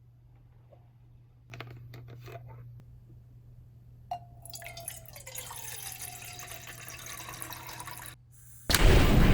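Liquid being poured: a few drips and clicks, then a steady pour from about four seconds in whose pitch slowly falls. Music starts near the end.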